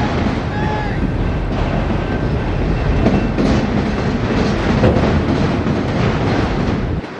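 Loaded autorack freight cars rolling past on the rails: a steady rumble and clatter of steel wheels over the track, with a couple of faint, brief wheel squeals in the first second or so.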